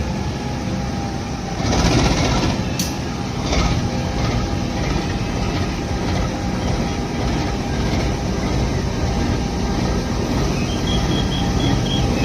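Railway work-train machinery with a diesel engine running steadily. Louder bursts of noise come about two and three and a half seconds in, with a sharp click between them. Near the end, a rapid series of short high electronic beeps sounds, like a warning beeper.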